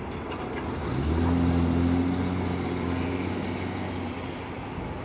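Road vehicle engine pulling away and accelerating, its pitch climbing about a second in. It holds steady, then dips and climbs again at the end as it shifts up a gear.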